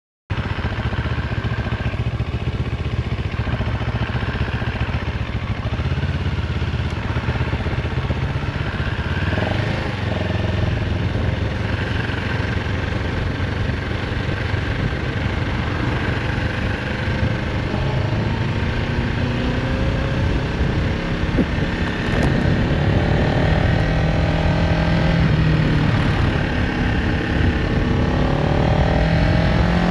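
CFMoto CL-X 700 Heritage's parallel-twin engine running steadily. In the last ten seconds or so its note rises in pitch several times as it accelerates.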